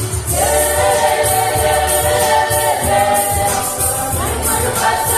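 A choir singing in harmony, holding long chords, with a new chord coming in about a third of a second in.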